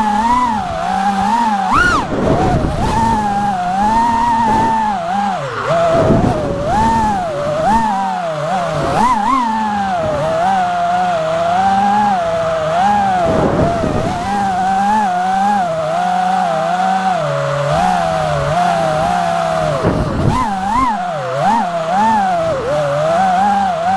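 FPV freestyle quadcopter's motors and propellers whining, the pitch rising and falling constantly with throttle. The sound drops sharply several times, as throttle is chopped and punched again.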